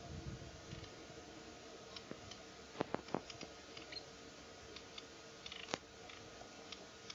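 Faint wetland ambience with scattered short, high chirps of distant birds and a few sharp clicks, the loudest a quick cluster about three seconds in.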